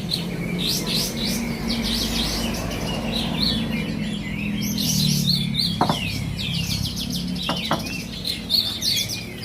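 Many caged songbirds singing and chirping over one another in quick, high, overlapping trills, over a steady low background hum. A couple of brief sharp clicks come about 6 and 7.5 seconds in.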